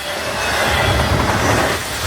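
Norfolk Southern intermodal freight train rolling past: a steady rush of wheel and railcar noise, with a low rumble building from about half a second in.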